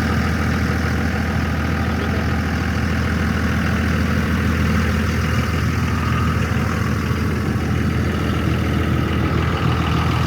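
Truck engine idling steadily, a constant low drone with no revving.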